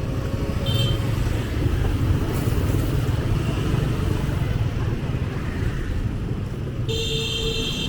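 Street traffic with a steady low rumble, a brief high beep about a second in, and a horn sounding for about a second near the end.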